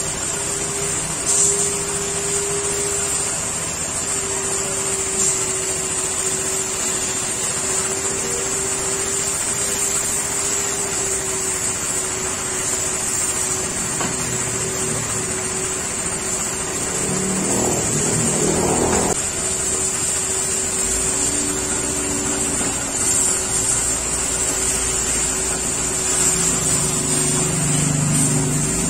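Car-wash pressure washer running steadily: a constant motor hum under a high hiss of spray. A brief rattling noise about two-thirds of the way through.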